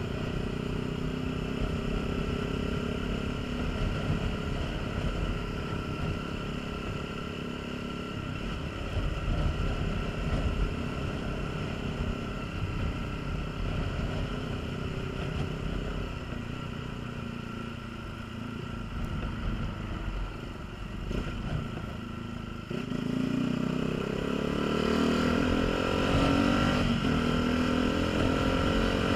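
Honda CBF125 single-cylinder motorcycle engine running on the move, with wind rumbling on the microphone. About three quarters of the way through, the engine note climbs steadily and gets louder as the bike accelerates.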